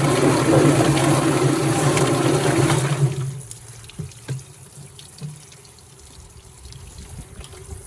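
Chicken plucker running with water splashing inside, a steady motor hum under the spray, which cuts off about three seconds in. After that, water trickles and drips, with a few light knocks.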